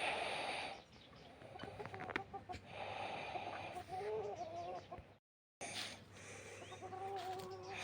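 Farm animals calling: short, wavering calls, with a rustling hiss at times. The sound cuts out completely for a moment about two-thirds of the way through.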